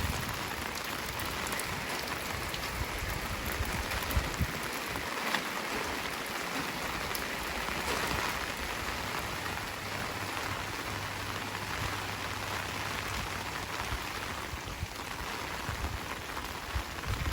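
Heavy rain falling steadily, an even hiss with scattered drops pattering on surfaces.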